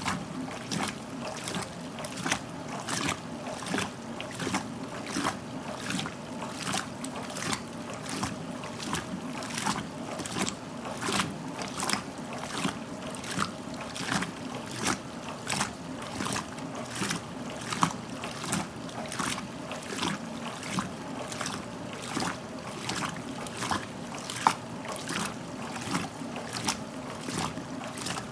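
1969 Westinghouse front-loading washing machine tumbling a load in water: splash-like slaps about twice a second over a steady motor hum as the clothes lift and drop in the drum.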